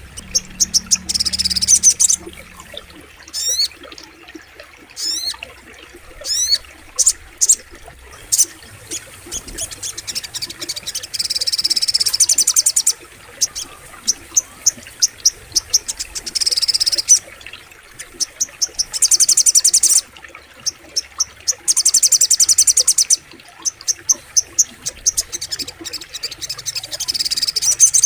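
Little spiderhunter (sogok ontong) calling: loud, high-pitched rapid trills in bursts of one to three seconds, repeated again and again, with single sharp notes and a few quick downward-sweeping notes between them.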